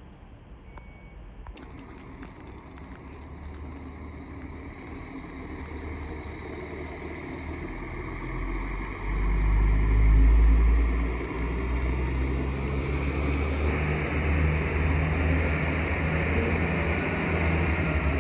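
A train approaching on the tracks and running close by, growing steadily louder, with a deep rumble that swells about nine seconds in and stays strong as it passes.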